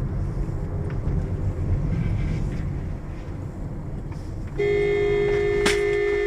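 Low vehicle rumble, then about four and a half seconds in a car horn blares and is held steadily.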